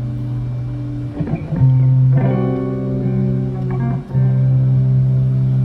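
Instrumental passage of a live band: guitars and bass holding chords, with a change of chord about a second and a half in and another about four seconds in.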